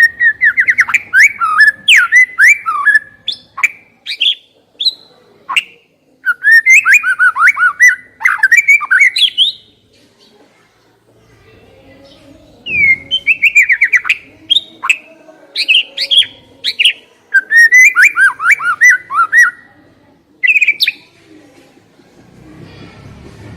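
Songbird singing loud, rapid phrases of whistled and chattering notes with short pauses between them, the longest pause about halfway through; a bird-song lure (pancingan) played to set a young white-rumped shama singing.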